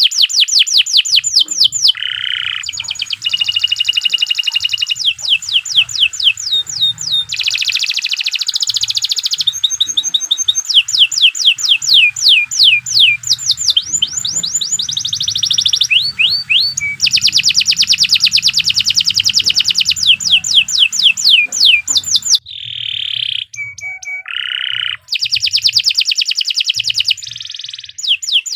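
Domestic canary singing a long, unbroken song: rapid trills of repeated sweeping whistled notes, switching to a new trill every second or two, with a brief passage of slower, lower notes about three quarters of the way through.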